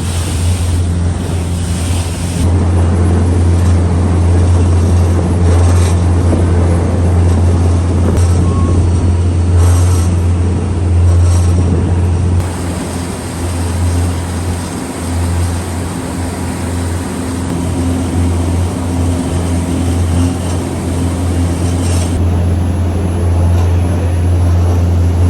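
Fast ferry's engines running with a steady low drone, over a rushing wash of water and wind.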